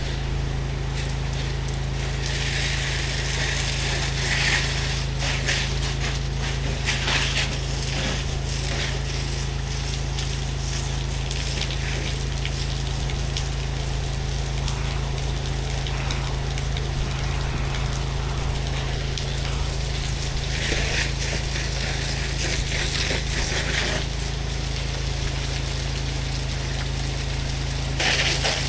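Pressure washer running with a steady low engine hum. High-pressure water spray hisses in stretches: about two to five seconds in, again from about twenty to twenty-four seconds, and near the end.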